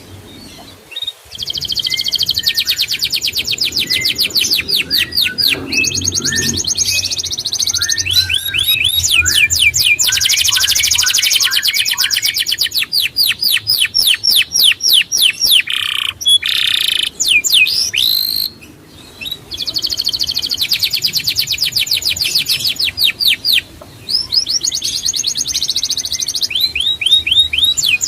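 Songbird singing long, fast trills of rapidly repeated high chirps and sweeps, in phrases broken by brief pauses.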